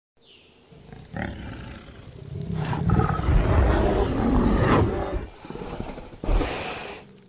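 A large animal's low, rough roar that swells over a few seconds, followed by a shorter second call near the end.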